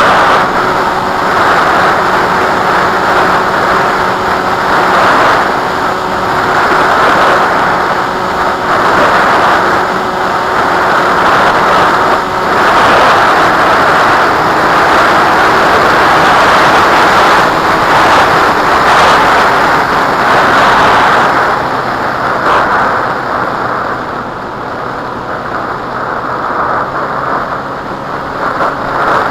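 Strong gusty wind buffeting the microphone: a loud rushing that swells and eases every second or two and drops back a little near the end. A faint steady hum runs underneath for the first dozen seconds.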